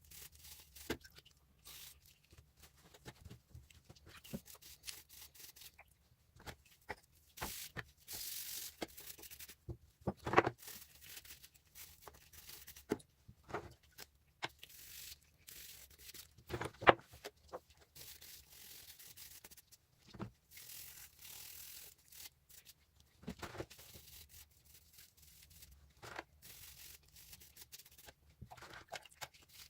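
Scattered light clicks and knocks with a few short scraping rubs, the sound of hand work on small metal parts; two sharper knocks stand out, at about ten and seventeen seconds in.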